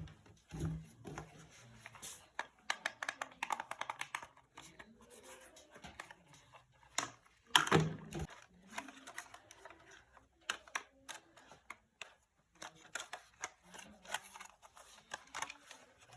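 Plastic toy construction vehicles being handled: scattered clicks and rattles, with a louder knock about eight seconds in.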